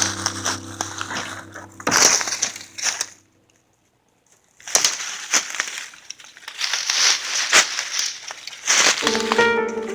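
Dry wood and brush crunching and snapping in irregular sharp cracks, in two stretches with about a second and a half of silence between them.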